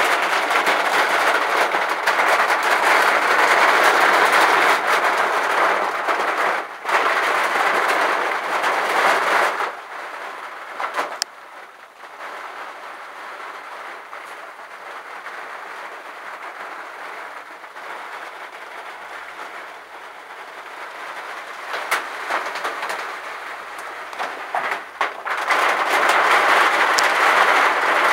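Heavy rain and the hiss of tyres on a wet road, heard from inside a moving vehicle, with a dense patter of drops. It falls to a softer hiss about ten seconds in and comes back strongly near the end.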